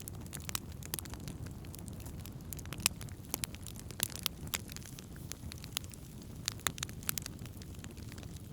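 Wood campfire burning, with irregular sharp crackles and pops over a steady low rumble. One pop about three seconds in is louder than the rest.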